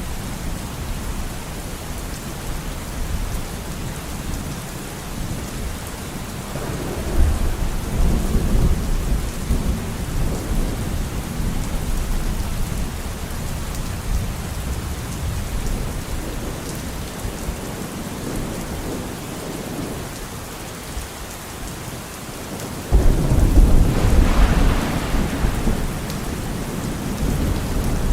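Steady heavy rain with thunder rolling twice: a low rumble about a quarter of the way in, then a sudden, louder clap with a rumbling tail near the end.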